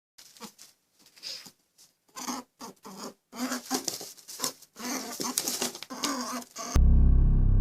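Irregular light pattering and scuffling from a small animal, with a few short low squeaks in the middle. Loud music cuts in sharply near the end.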